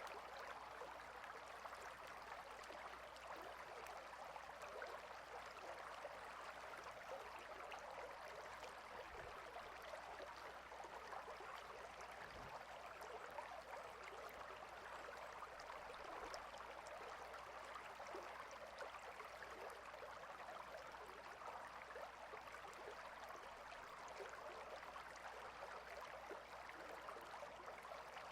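Water stream flowing steadily: a faint, even rush.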